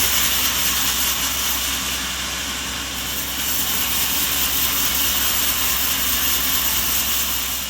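Sawmill machinery running with a steady, hissing mechanical noise, beginning to fade out near the end.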